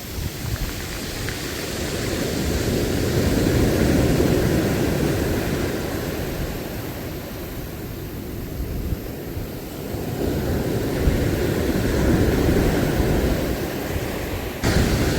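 Sea surf and wind rushing, swelling twice in slow surges and easing between, with a sudden louder rush near the end.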